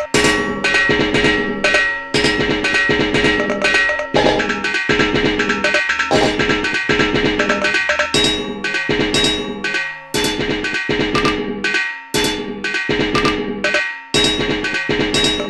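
A looped percussive groove built from sampled household sounds, with clanging, metallic hits such as pots and pans. It plays at a steady tempo, its pattern repeating about every two seconds.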